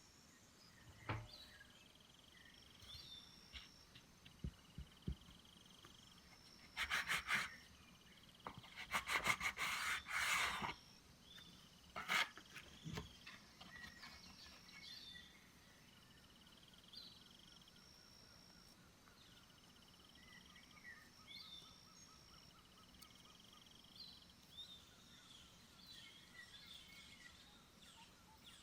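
Small birds calling and chirping in woodland over a quiet background, with a fast trilled series near the middle. A few short, loud, noisy bursts break in about a quarter and a third of the way through.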